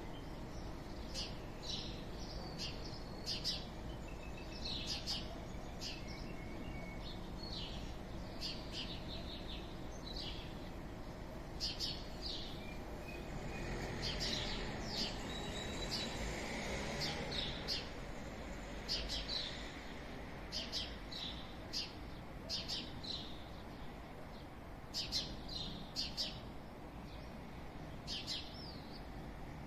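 Small birds chirping repeatedly in short high notes over a steady low background hum of town and air. About halfway through, a broader rushing sound swells and then fades.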